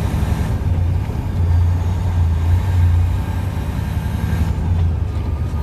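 Semi truck's diesel engine running with a steady low drone, heard from inside the cab; it swells a little about a second and a half in.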